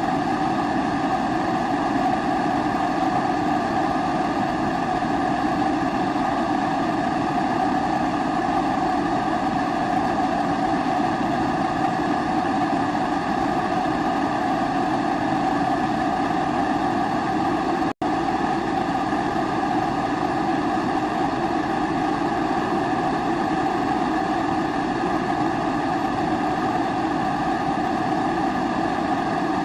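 Kerosene pressure stove (primus-type) burner running steadily with an even rushing noise. The sound cuts out for an instant a little past the middle.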